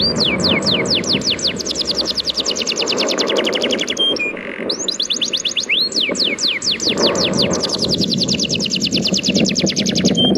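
A bird's rapid trill of high falling notes, about ten a second, sung twice in long phrases over the steady wash of sea waves.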